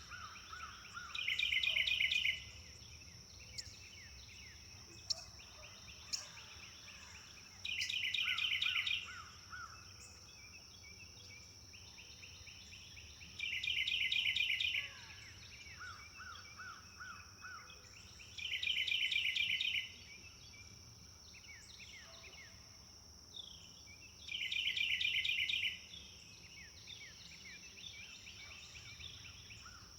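Wild songbird birdsong: one bird repeats a short, fast trilled song about every five seconds, five times, with fainter chirps from other birds in between. A steady high-pitched drone runs underneath throughout.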